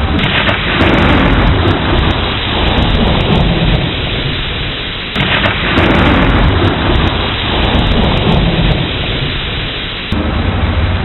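Thunderstorm: steady heavy rain with two claps of thunder, one right at the start and another about five seconds in, each rumbling away over several seconds.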